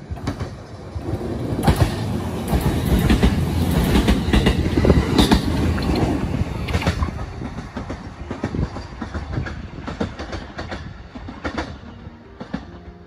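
JR E131-series electric train passing through the station without stopping, its wheels clicking over the rail joints. It grows loud over about two seconds, is loudest as it goes by, then fades as it runs away down the line.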